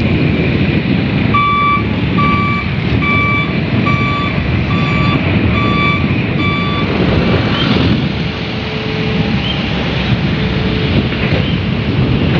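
Diesel engine of heavy construction machinery running, with a backup alarm beeping about seven times in a steady rhythm and then stopping. A steady hum comes in after the beeping ends.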